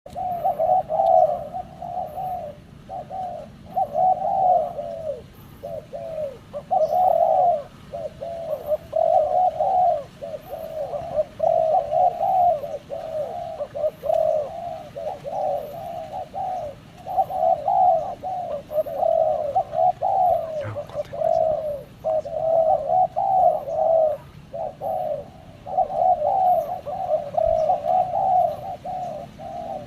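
Spotted dove (tekukur) cooing over and over, phrase after phrase with only short breaks between them.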